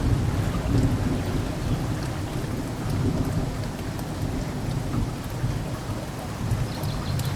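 Steady rain with low rolling thunder that swells and fades, strongest near the start.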